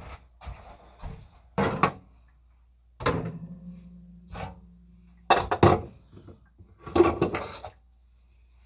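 Household items being picked up and set down on a kitchen counter: a series of knocks and clatters, four of them loud, with a low steady hum for a couple of seconds after the second.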